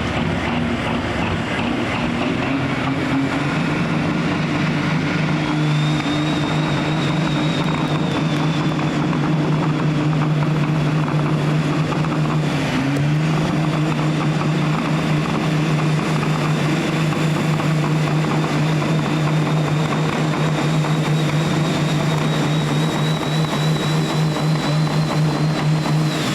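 Diesel engine of a pulling truck or tractor held at high revs for a long, steady pull, with a high whine climbing over the first several seconds and then holding.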